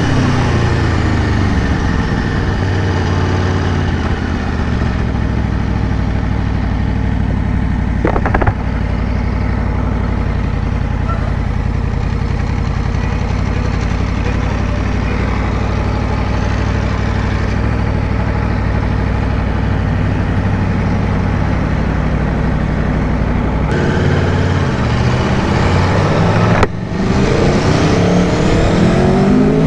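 2022 Aprilia Tuono V4 Factory's V4 engine heard from on board the moving motorcycle: revs fall at the start, then it runs steadily at low revs for most of the time, with a brief sudden drop about 27 seconds in, after which the revs climb steeply near the end.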